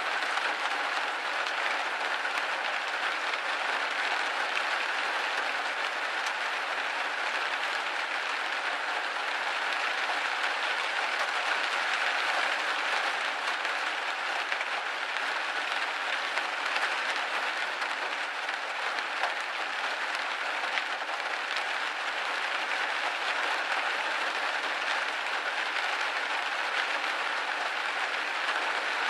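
Steady rain pattering against a window pane, a dense even hiss of many fine drops.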